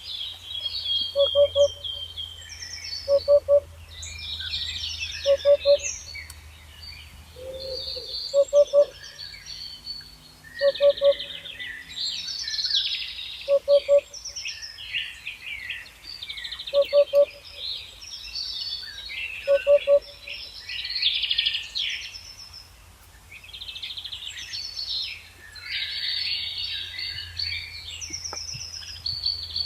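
A chorus of small songbirds chirping and trilling. Over it, a lower three-note hooting or cooing call repeats about every two to three seconds, then stops about two-thirds of the way through.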